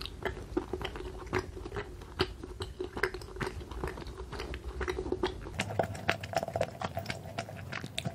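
A mouth chewing a red pumpkin-shaped gummy candy, close to the microphone: many small, irregular clicks and smacks as the chewy jelly is worked.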